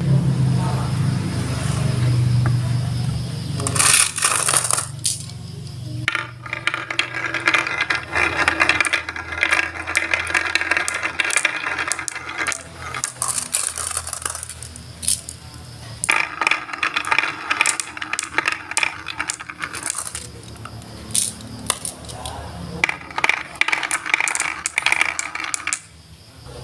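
Wood fire crackling and popping: dense, irregular sharp clicks that come in spells of several seconds, with a low hum in the first few seconds.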